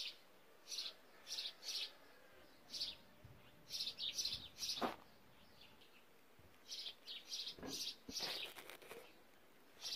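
Small birds chirping: short, high calls repeated in irregular runs, with one sharp thump about five seconds in.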